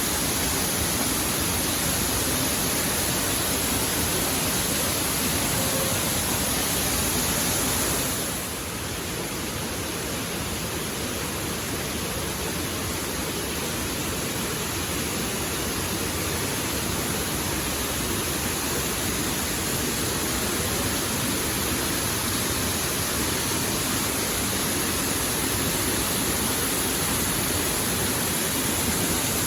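Waterfall: a steady, even rush of falling water. It drops a little about eight seconds in, losing some of its hiss, then slowly builds back.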